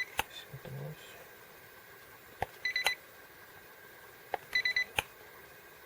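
Handheld infrared thermometer taking surface temperature readings: a click of the trigger, a quick run of short high electronic beeps, then a click on release, twice about two seconds apart.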